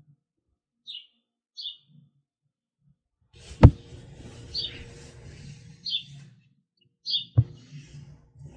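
Small songbirds chirping outside, short high chirps repeating every second or so. A sharp click sounds about three and a half seconds in, the loudest thing heard, and a second one near seven and a half seconds.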